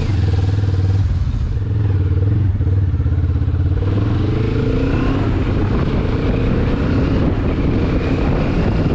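Benelli TRK 702's parallel-twin engine running while the motorcycle rides off. About halfway through the engine note rises as it accelerates, and wind rush grows.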